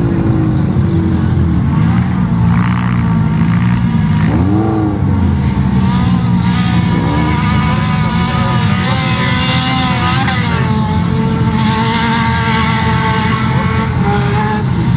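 Race-car engines revving hard, pitch rising and falling again and again as the drivers accelerate and change gear, with more than one engine heard at once.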